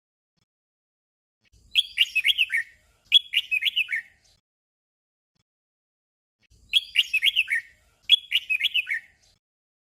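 Red-whiskered bulbul singing its short 'doubled' song: a quick phrase of several whistled notes given twice back to back, then the same pair again after a pause of about two seconds.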